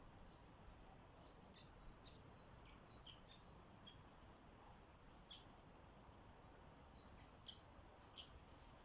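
Sparrows chirping faintly: short single chirps scattered irregularly, several in a cluster from about one and a half to four seconds in and more near the end, over a low steady background hum.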